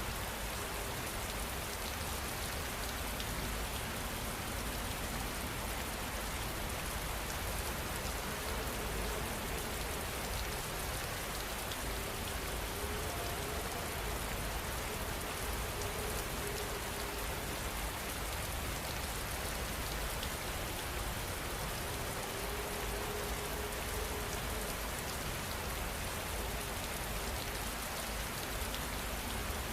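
Steady rain falling and pattering on a surface, an even hiss without breaks, with a faint low tone coming and going under it.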